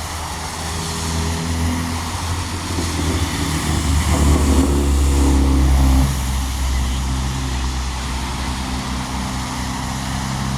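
Motor vehicle engine running close by, a steady low hum that swells louder for a couple of seconds around the middle and then drops back suddenly, as traffic passes on the road.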